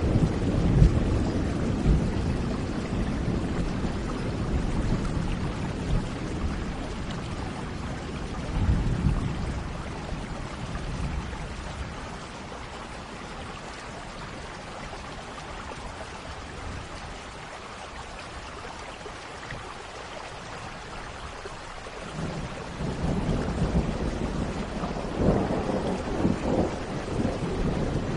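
Thunderstorm: steady rain hiss with rolling thunder that dies away over the first ten seconds or so, leaving rain alone, then a new rumble of thunder builds and crackles in the last several seconds.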